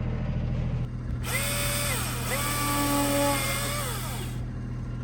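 Milwaukee M18 battery chainsaw revved twice without cutting: each time the motor whines up, holds steady and winds down, and the second run is longer. A tractor engine idles low underneath.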